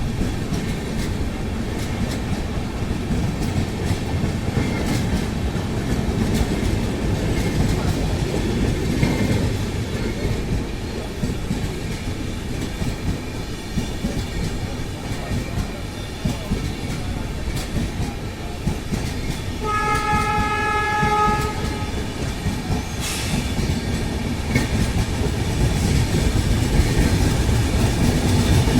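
LHB passenger coaches running on the track as an electric-hauled express gathers speed: a steady rumble with wheel clatter over the rail joints, growing louder near the end. About two-thirds of the way through, a train horn sounds once for about two seconds.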